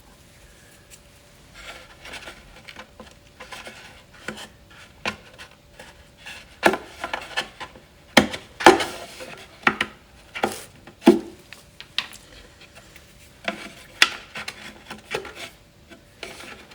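Wooden spacers being handled and pressed into place between wooden parts: irregular wood-on-wood knocks and taps with short rubbing scrapes, busiest in the middle.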